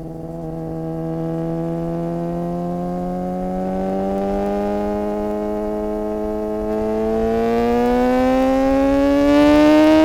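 Suzuki GSX-R600's inline-four engine pulling under acceleration in one gear, its pitch climbing slowly and evenly and growing louder near the end.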